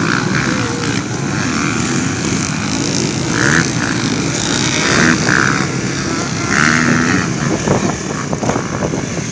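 Motocross bikes' engines running and revving up and down, swelling louder a few times.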